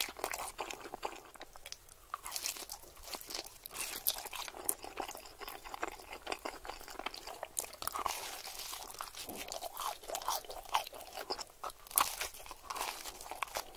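Close-miked chewing of pepperoni pizza: crackly, crunchy chewing of the crust throughout, with a sharp bite into a fresh piece about twelve seconds in, the loudest moment.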